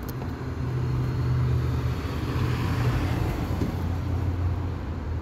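A car going by on the road: its noise swells and fades over a few seconds over a steady low engine hum.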